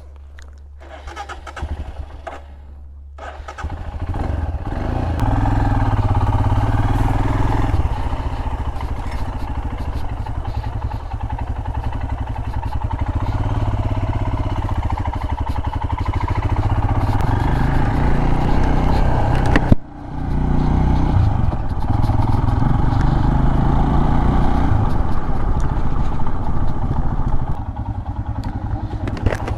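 Royal Enfield Himalayan's single-cylinder engine running as the motorcycle is ridden. It builds up a few seconds in and stays loud and steady, with a brief sudden drop-out about twenty seconds in.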